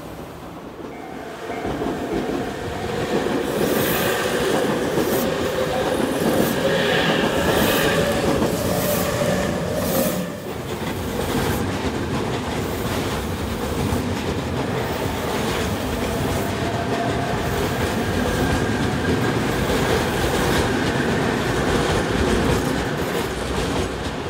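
Tobu 100 series Spacia electric train passing close by: steel wheels clattering over rail joints, with a steady wheel squeal on the curved track.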